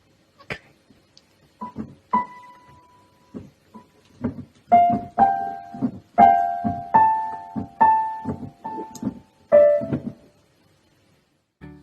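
Piano keys struck in an uneven, halting run: a few single notes at first, then clusters of several notes at once for about five seconds, stopping about a second and a half before the end. A short knock follows near the end.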